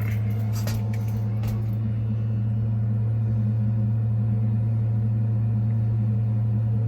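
Navien gas tankless water heater firing, its combustion blower and burner running with a steady low hum while it heats water, back in operation after its clogged air-intake screen was cleaned to clear an E110 fault. A few light taps sound in the first second and a half.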